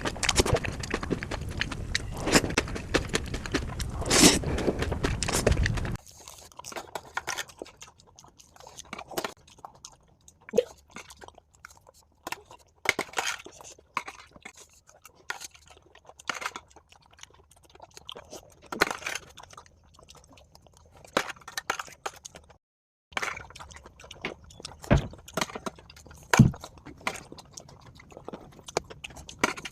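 Close-miked crunching and chewing of dahi puri: crisp puri shells filled with yogurt, bitten and chewed in irregular bursts. Louder and denser for about the first six seconds, then quieter with separate crunches.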